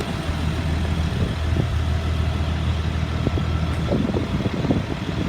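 A 2004 Blue Bird school bus engine idling with a steady low hum, with a few light knocks about four seconds in.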